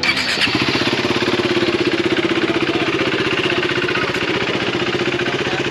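Motorcycle engine idling steadily with a rapid, even pulsing beat.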